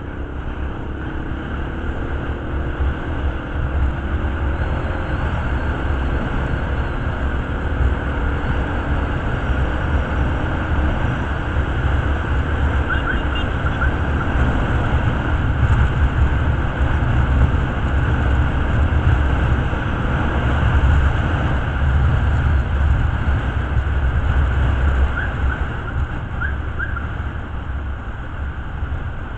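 Motorcycle on the move, its engine running under a heavy, steady low rumble, with the engine note gliding in the first few seconds.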